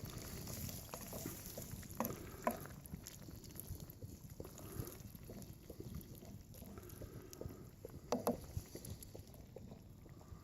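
Steady low outdoor rumble, like wind on the microphone, with scattered small clicks and a few sharper clinks or knocks, two about two seconds in and two more near eight seconds.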